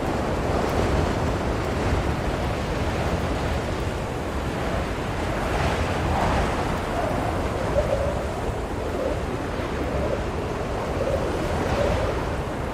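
Blizzard wind blowing steadily, with a faint wavering howl that comes and goes and a gust swelling about six seconds in.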